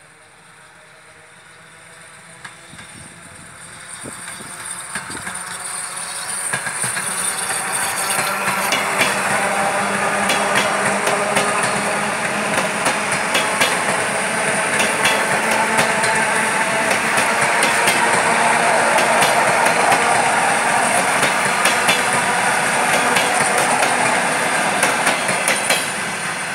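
ER2R electric multiple unit approaching and passing close by, the rumble of its cars growing over the first several seconds and then running loud and steady. Regular clickety-clack of its wheels over the rail joints runs through it.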